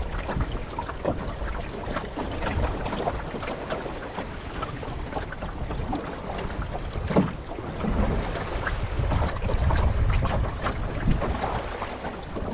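Water lapping and splashing against the hull of a small wooden Beach Pea sailboat underway, with wind buffeting the microphone. There is one sharper knock about seven seconds in.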